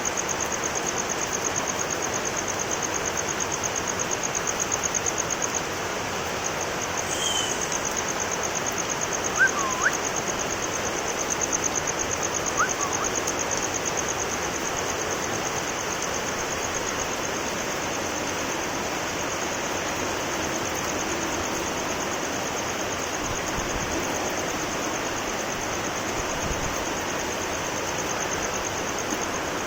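Heavy rain falling steadily, an even hiss. A high, rapidly pulsing trill runs over it, breaking off briefly about six seconds in, and a few short chirps come around ten seconds in.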